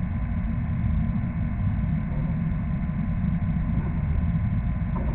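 A steady low mechanical rumble, like an engine or motor running.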